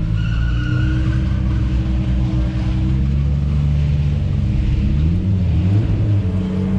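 Nissan Skyline R33's turbocharged RB25DET straight-six running at low revs while the car rolls slowly, the revs dipping and picking up again about five seconds in.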